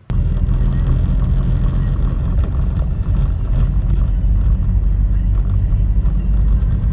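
V8 engine running with a loud, steady low rumble.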